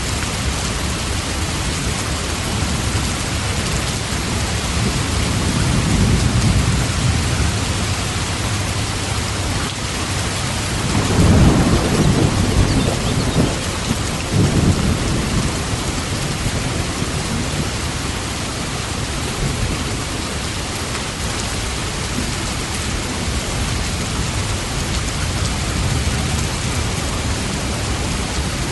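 Steady rain falling, with thunder: a low roll about a quarter of the way in, then a louder crack and rumble near the middle that rolls on for a few seconds before the rain alone carries on.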